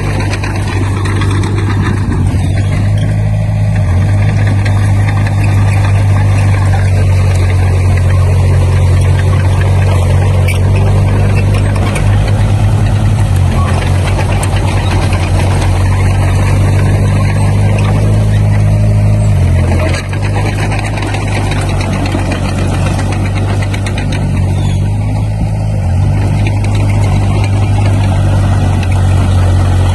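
Diesel engine of a Komatsu D20P bulldozer running steadily under work, with a brief drop in engine note about twenty seconds in.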